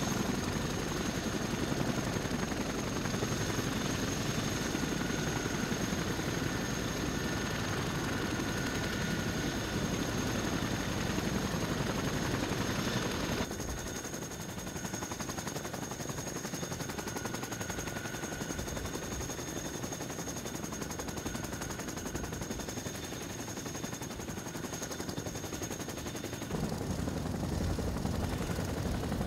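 Helicopter running: a steady high turbine whine over a fast, even rotor chop. It drops to a lower level about thirteen seconds in and comes back up near the end.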